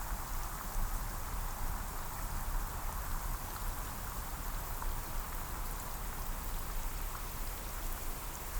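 Steady rain falling on forest foliage, an even patter of many small drops.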